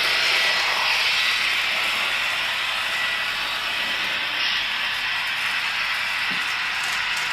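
N scale BLI AC6000 model diesel locomotives running on the track, making a steady hissing drone.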